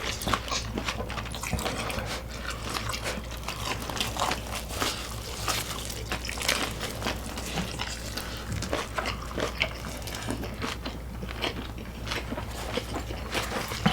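Close-miked eating sounds: chewing and biting food, with a continuous run of small crunches and clicks.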